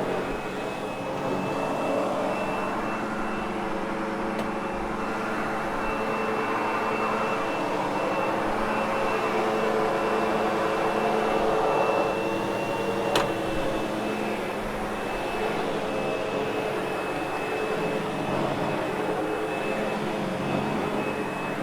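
Sebo X8 upright vacuum cleaner running on carpet: a steady high motor whine over a rushing airflow that swells and eases. A single sharp click about thirteen seconds in.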